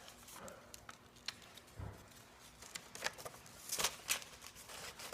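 Paper airplane being handled and folded: soft rustling of the paper sheet with scattered crinkles and crease clicks, a few louder ones about three to four seconds in.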